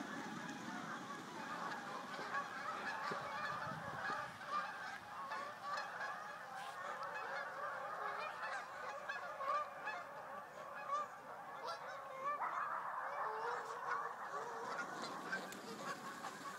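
A flock of geese honking, many calls overlapping into a continuous clamour that grows a little louder about twelve seconds in.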